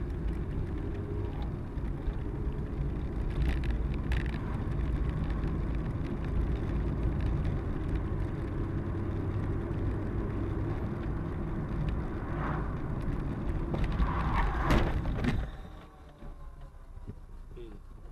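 A moving car's steady low rumble of engine and road noise, with a few short louder noises. Near the end comes the loudest burst, then the rumble drops away suddenly.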